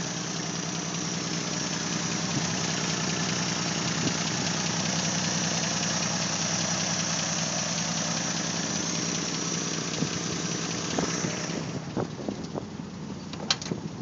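A 1969 Valiant's slant-six engine idling steadily through a newly welded exhaust with a stock-replacement muffler. It shuts off about twelve seconds in, followed by a few sharp clicks.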